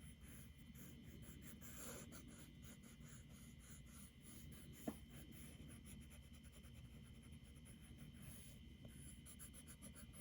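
Faint, quick scrubbing of an eraser rubbed over paper, lifting out charcoal where the shading has got too dark, with a single small tap about five seconds in.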